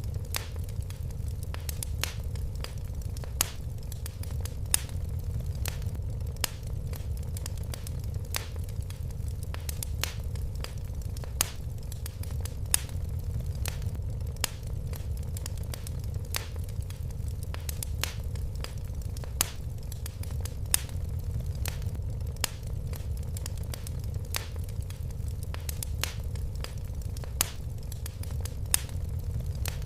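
Fire in a fireplace crackling: irregular sharp pops, a few louder than the rest, over a steady low rumble of the flames.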